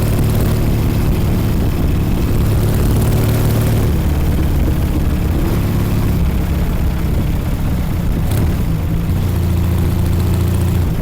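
1956 Norton Dominator 500 parallel-twin engine running on the move, its note shifting a few times as the revs change. There is a brief click about eight seconds in.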